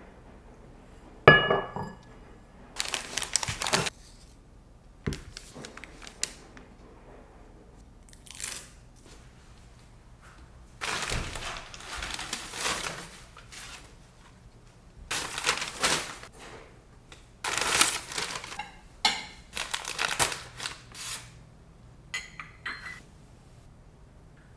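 Packaging crinkling in several short bouts, with one short ringing clink about a second in.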